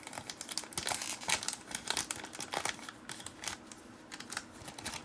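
Trading cards and paper wrapping being handled: crinkling with many light, quick ticks, busiest in the first few seconds and thinning out after.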